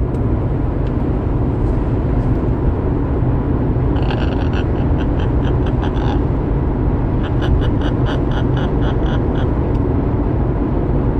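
Bird calling in quick, evenly spaced high chirps, in three runs of a couple of seconds each. Under it runs a loud, steady low rumble like a running vehicle.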